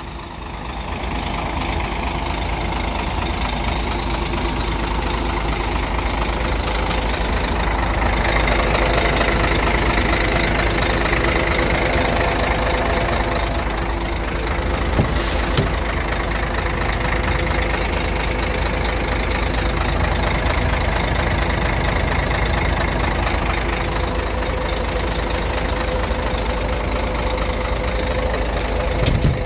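Scania R114 truck's inline-six diesel engine idling steadily, a little louder for a few seconds about a third of the way in. A brief click about halfway through and another near the end.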